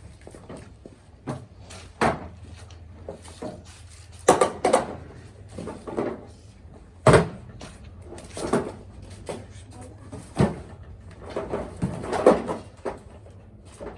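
Irregular knocks and clunks of boxes and auction items being handled, moved and set down, a dozen or so of them at uneven spacing.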